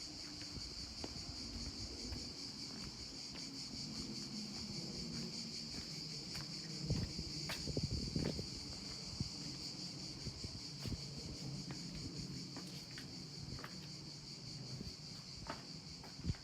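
Steady high-pitched drone of insects, over a low rumble of outdoor background noise with scattered light clicks, a few louder ones about seven and eight seconds in.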